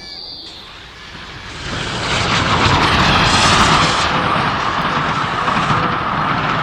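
A railway locomotive's horn or whistle cuts off just after the start, then the train grows loud about two seconds in and runs on steadily with a steady whine over the noise.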